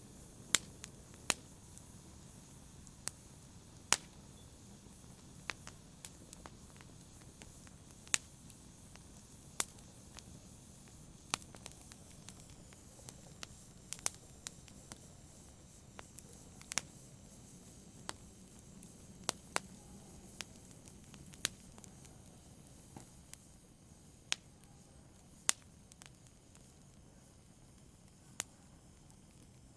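Wood campfire crackling: sharp, irregular pops every second or two over a faint, steady low noise from the burning fire.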